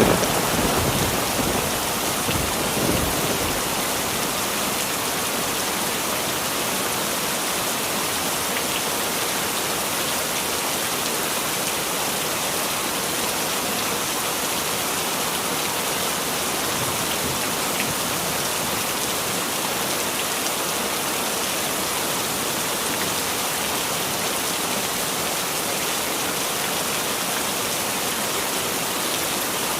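Heavy rain falling steadily, a dense even hiss, with the rumble of a thunderclap dying away in the first few seconds.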